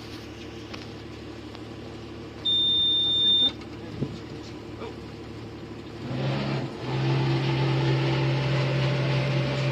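A single high electronic beep lasting about a second, then a few seconds later a boat engine starts and runs steadily.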